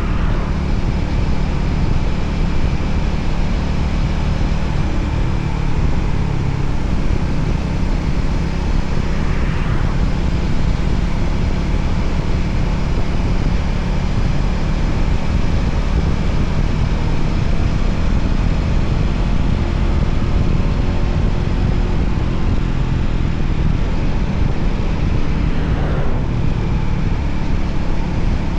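Voge 300ACX motorcycle engine running at a steady cruise on the road, heard over a steady rush of wind noise.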